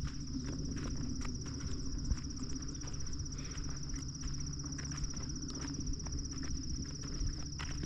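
A steady high-pitched insect trill, cricket-like, running without a break, with irregular light footsteps on a path and a low rumble of walking and handling noise underneath.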